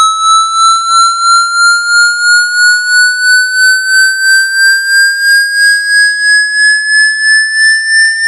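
Water-ejection speaker-cleaning tone: a loud electronic tone gliding slowly upward in pitch and pulsing about three times a second.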